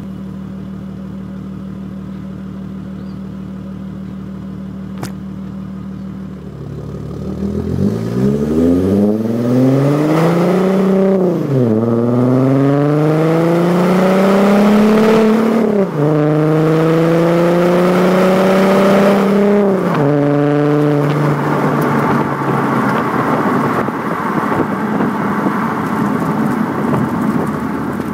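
Audi A4 2.5 TDI quattro's V6 diesel through a straight-through stainless exhaust with a Powerflow back box: it idles steadily, then pulls away with the note rising in three climbs, each cut short by an upshift. After the last shift the engine holds a steadier tone under a rushing road and wind noise.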